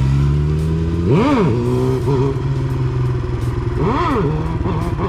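Motorcycle engine running steadily, blipped twice: two quick revs that rise and fall, about a second in and again near four seconds.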